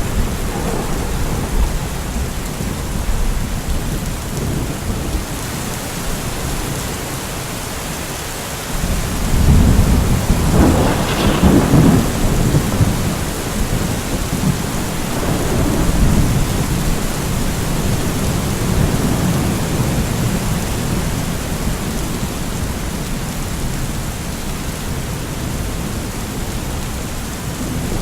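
Steady rain with rolling thunder. A loud thunder rumble swells about a third of the way in, peaks, and fades over several seconds while the rain goes on.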